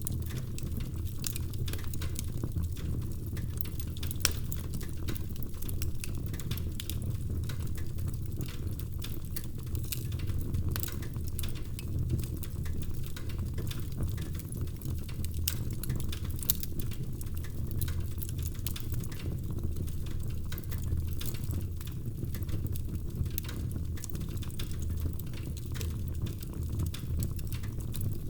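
Fire crackling in a fireplace: frequent sharp pops and snaps over a steady low rumble of the flames.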